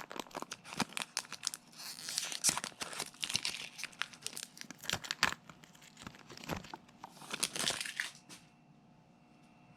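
Foil Pokémon booster pack being torn open and handled, with dense sharp crinkling and tearing crackles. They die away about eight seconds in, leaving faint room hum.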